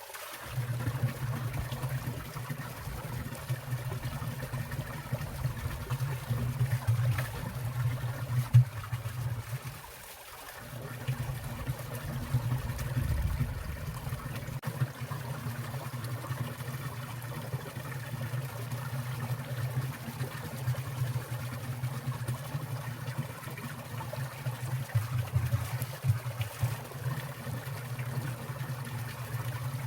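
Water of a winter mountain stream trickling and splashing past ice, a steady rushing wash with a strong low burble, briefly dropping away about ten seconds in.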